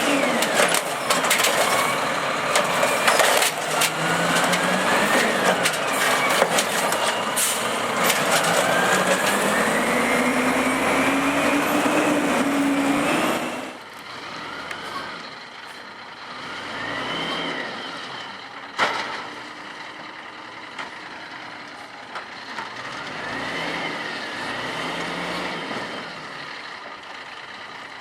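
Automated side-loader garbage truck working a pickup: the engine revs up and down as the hydraulic arm cycles, with clanks and knocks as a trash cart is lifted and dumped. About halfway through the sound drops to a quieter truck, with two more rises and falls in engine pitch and a single sharp bang.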